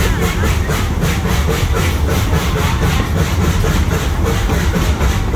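Zoo train running along its track, heard from aboard: a steady, loud low rumble of the train and its cars with an even, rapid rhythmic pulsing.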